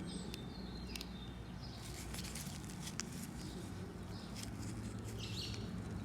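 Small brush scratching and scrubbing at a lawnmower carburetor's parts to loosen built-up deposits, in short irregular strokes with an occasional light click, over a steady low hum.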